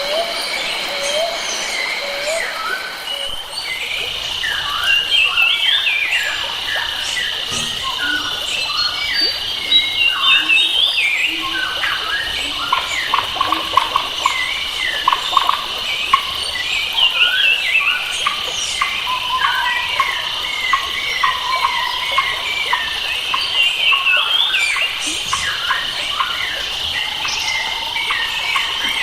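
Forest soundscape: many wild birds chirping and warbling over a steady high insect drone, with a faint hiss like a stream in the background.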